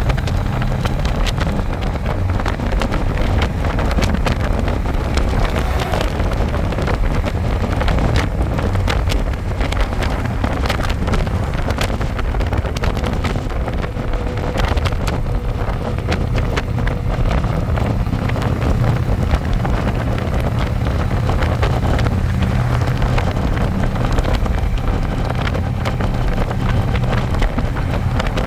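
Harley-Davidson Electra Glide's V-twin engine running steadily on the move, with wind buffeting the microphone.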